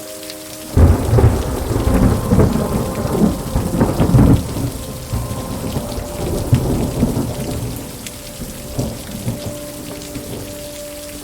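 A thunderclap breaks suddenly about a second in and rumbles loudly for a few seconds, then dies away over steady rain.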